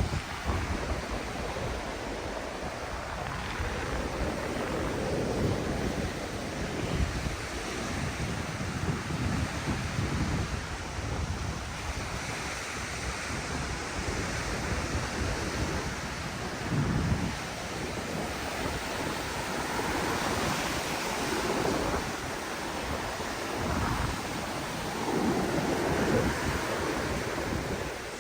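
Ocean waves washing onto a sandy beach in a steady, swelling rush, with wind buffeting the microphone in low gusts now and then.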